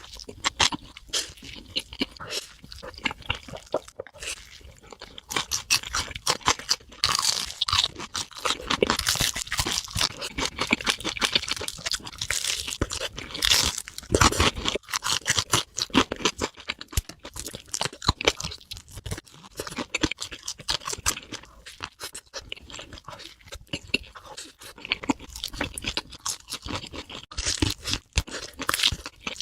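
Close-miked eating of a hamburger: repeated crunchy bites and wet chewing, dense irregular crackles throughout.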